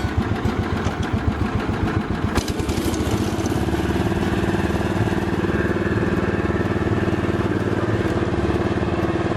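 A motor vehicle engine running, uneven and pulsing for the first few seconds and then settling into a steady, even speed.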